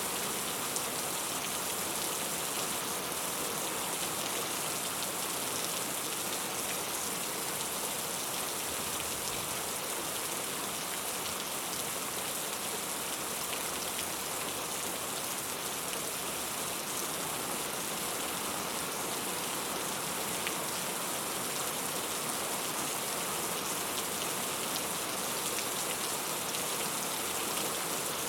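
Heavy rain falling steadily: a dense, even hiss of rain with scattered individual drop ticks.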